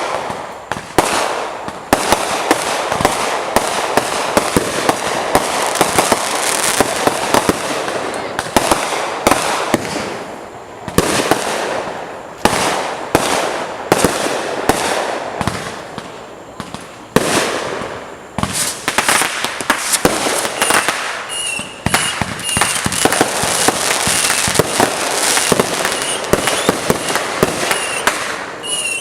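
Fireworks and firecrackers going off: rapid strings of sharp bangs and dense crackling pops, easing briefly a few times before starting up again.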